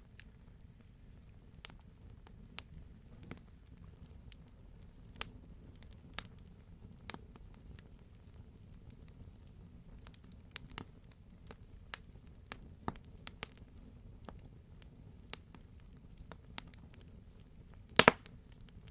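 Campfire burning with scattered sharp crackles and pops over a low steady rumble, and a loud cluster of pops near the end.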